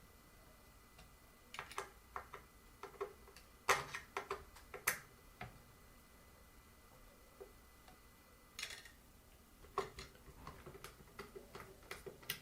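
Scattered small clicks and light knocks of screws and metal fan parts being handled while a ceiling fan's switch housing is unscrewed and taken apart, in two spells, with a short scrape partway through.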